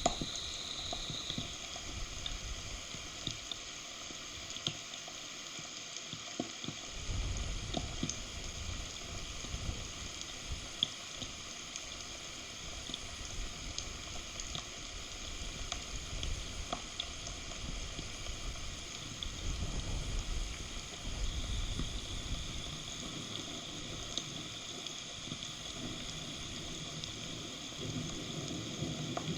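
Rain falling steadily on a forest nest, a continuous hiss with scattered drip clicks, while wind gusts buffet the microphone in a shifting low rumble that drops away about five seconds in and returns a couple of seconds later.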